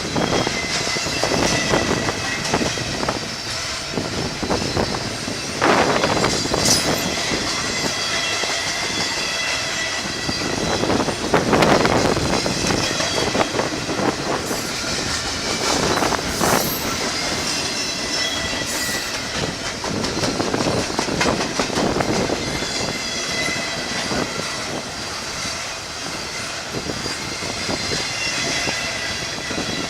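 Train cars rolling past, their wheels clicking over the rail joints and squealing in a steady high tone, with louder surges now and then.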